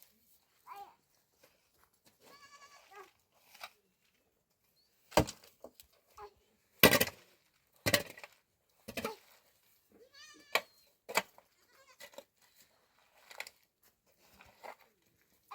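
Goats bleating: two quavering calls, one a couple of seconds in and another about ten seconds in, with sharp knocks and clatters in between.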